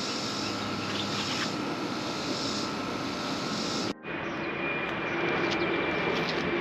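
A steady rushing, engine-like drone with no clear rhythm. It is broken by an abrupt cut about four seconds in, after which a faint steady whine rides on top.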